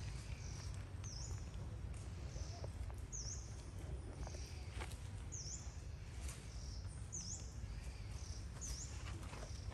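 Small bird giving short, high chirps every second or two over a steady low rumble of outdoor background noise.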